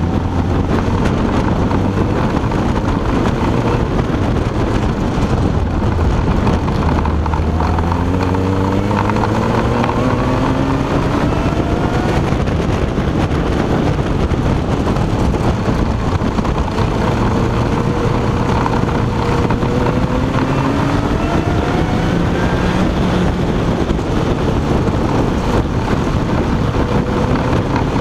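Supercharged Ariel Atom's Honda four-cylinder engine pulling hard, its pitch climbing through the revs twice, about a third of the way in and again past the middle, under a constant rush of wind and road noise in the open car.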